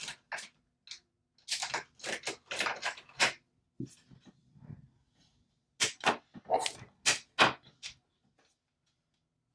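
Plastic alcohol markers clicking and clacking as one is picked out of the set and uncapped: a run of short sharp clicks, then a second run a few seconds later.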